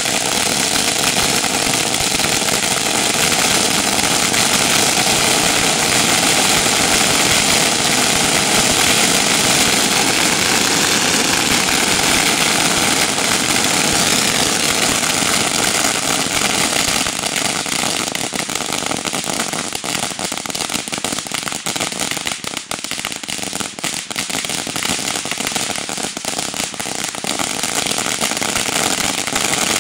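A long string of firecrackers going off in a continuous rapid crackle of small bangs. From about halfway it turns more uneven, with separate cracks standing out.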